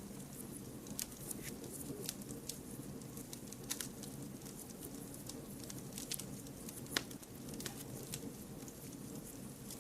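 Wood fire crackling: a steady low rumble of burning with irregular sharp pops and snaps, one louder pop about seven seconds in.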